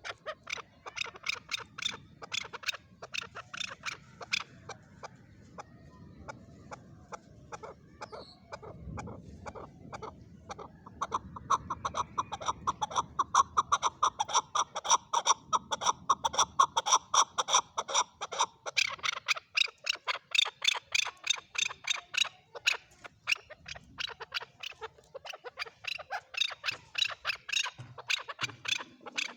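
Male chukar partridge calling: a long run of rapid, short repeated notes, several a second, packed tightest through the middle of the stretch.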